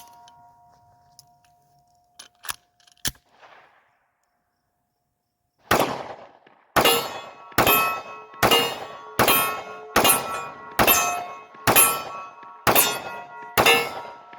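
Springfield XD Subcompact 9mm pistol on a 3D-printed frame firing about ten shots in a steady string, a little under a second apart, each followed by the ring of a struck steel target. A few faint clicks come before the first shot.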